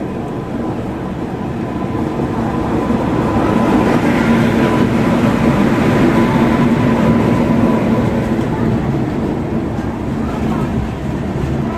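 A train running past at a station, with a steady hum and whine over the rumble, growing louder to a peak mid-way and then fading.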